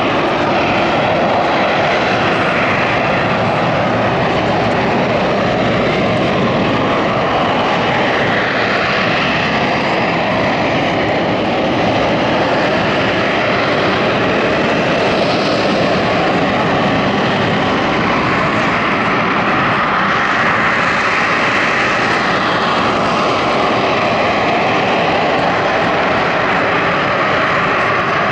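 Loud, steady engine noise of a MiG-17 jet fighter flying its air-show display, its tone slowly shifting as the aircraft moves.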